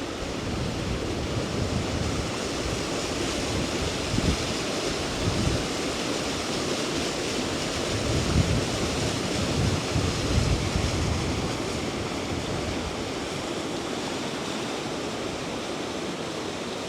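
Injebreck waterfall on the Colden River rushing steadily. A few low gusts of wind buffet the microphone near the middle.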